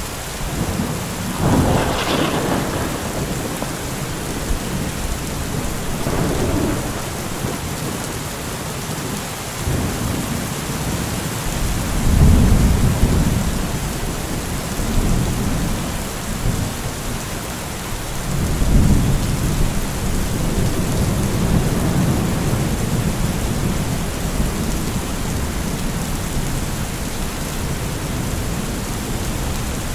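Heavy rain falling steadily through repeated rolls of thunder. A sharper clap comes about two seconds in, then low rumbles, the loudest about twelve seconds in and another shortly before twenty seconds.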